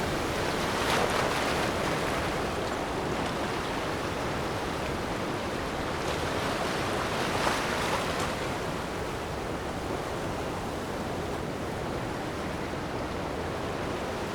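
Ocean waves washing onto a shore: a steady surf hiss with two louder wave surges, one about a second in and another about seven seconds in.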